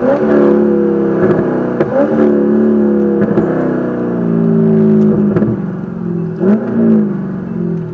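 Race car engine running hard under load. Its pitch jumps up quickly and then sags back several times as the car is driven through gears.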